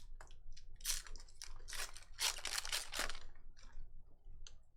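Trading cards being handled: a run of short rustling, crinkling scrapes, loudest around the middle.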